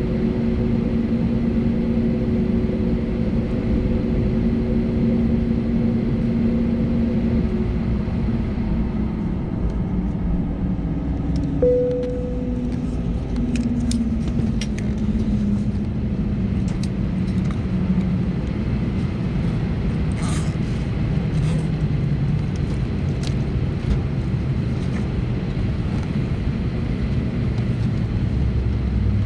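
Cabin noise of an Airbus A320neo with Pratt & Whitney PW1100G geared turbofan engines, heard from a rear window seat. The engines' steady tones begin sliding slowly lower in pitch about 8 seconds in, as the engines run down after the aircraft stops. A single short tone sounds near the middle, followed by scattered light clicks.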